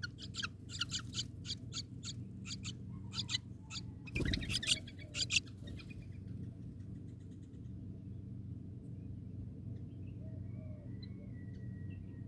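A bird giving a rapid series of short, sharp, high-pitched calls for about the first half, then a few faint thin whistles, over a steady low hum.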